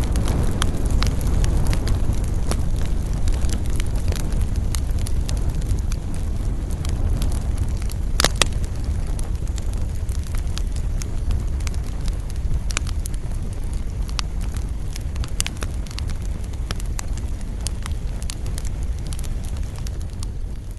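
Fireplace fire crackling: scattered snaps and clicks over a steady low rumble, with one louder pop about eight seconds in.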